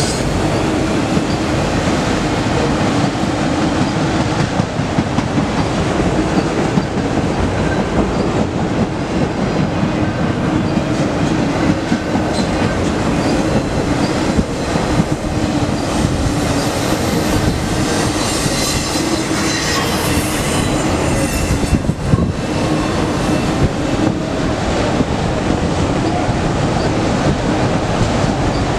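Freight train of autorack cars rolling past: a steady rumble of steel wheels on rail, with clicking over the rail joints and brief high wheel squeals at times.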